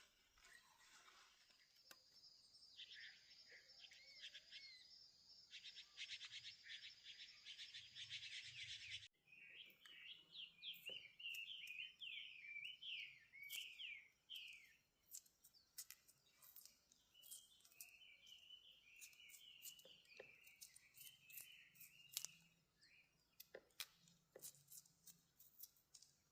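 Faint outdoor birdsong: a steady high buzzing trill for the first several seconds, then runs of quick rising and falling chirps. Scattered light clicks throughout.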